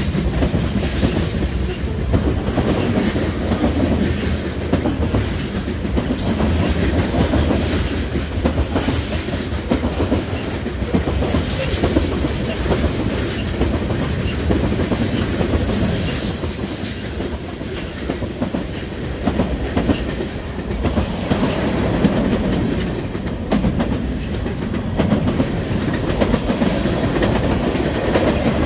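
A train rolling past at close range, its steady rumble broken by the clickety-clack of wheels over the track. About halfway through there is a brief high squeal from the wheels.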